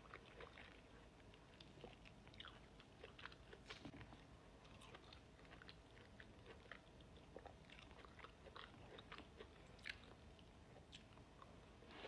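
Faint, close-miked chewing and biting: a run of small, irregular crisp clicks and wet mouth sounds.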